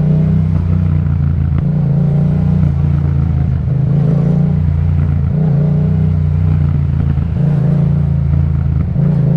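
Yamaha MT-07 parallel-twin engine running through an Akrapovic exhaust while riding, its low note shifting several times with the throttle.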